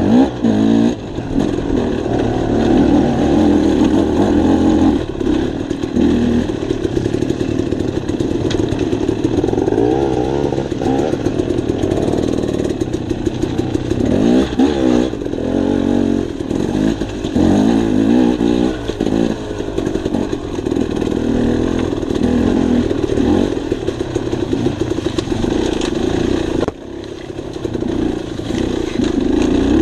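Dirt bike engine running while riding, revving up and down with the throttle. The engine sound briefly drops off near the end.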